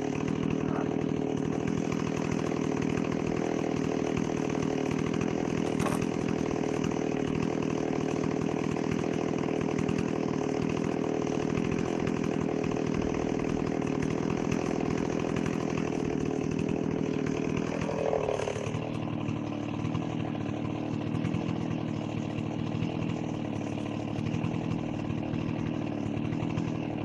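Stihl 038 Magnum two-stroke chainsaw running steadily at high revs, cutting through a tree trunk. The engine note dips briefly about two-thirds of the way through, then runs on a little lower.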